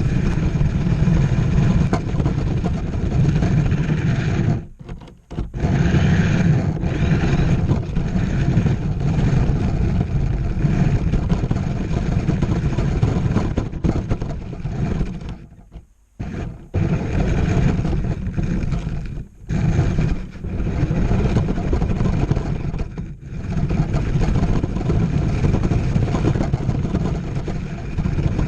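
RC monster truck driving, a loud steady rumble with a faint whine above it, that drops out briefly about four times.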